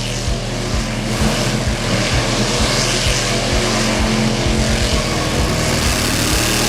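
Engine and racing sound effects for a toy monster truck race, a dense steady rush laid over background music with a steady low beat about two and a half times a second.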